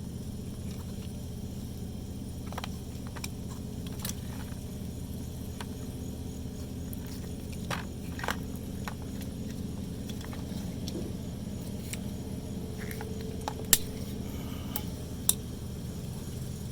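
Scattered light clicks and clinks of hand work with pliers and metal parts on a truck's fuel pump assembly, over a steady low hum; two sharper clicks come near the end.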